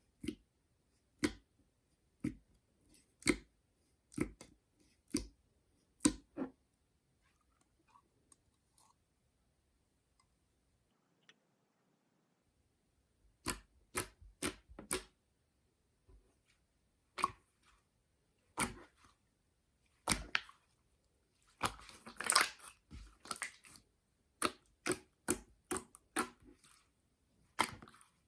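Jiggly water-jelly slime being pressed and squeezed by hand, giving sharp sticky clicks and pops about one a second. The pops stop for a few seconds near the middle, and a denser run of crackling comes about two-thirds of the way through.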